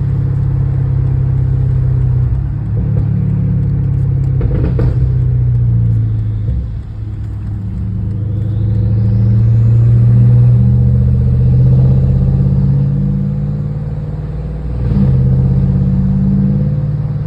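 BMW N63TU twin-turbo V8 of a 2016 550i breathing through a 3-inch straight-piped exhaust, running at low revs on light throttle while cruising. The note dips and swells a few times, with a brief sharp sound about five seconds in and again near the end.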